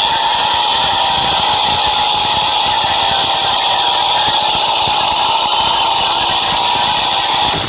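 Subway train running, a steady loud rumble and rush with high-pitched whining tones held throughout.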